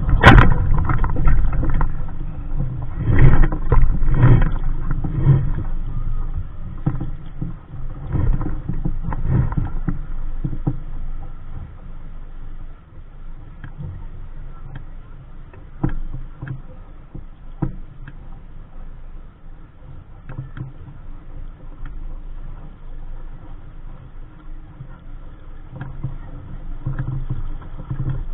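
Wind buffeting the microphone and water rushing and splashing along the hull of a small sailing dinghy under way, gusty and louder for the first ten seconds or so, then easing. A few sharp knocks from the boat's gear stand out in the middle.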